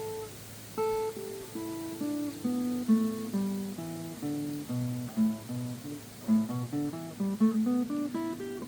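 Steel-string acoustic guitar played one note at a time, running a blues scale pattern at the 5th fret: plucked single notes step down in pitch and climb back up, quickening toward the end.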